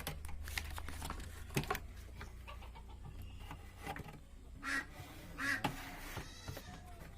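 Scattered small clicks and knocks of TV parts being handled as the speaker wire is plugged back in and the chassis set in place, over a steady low hum.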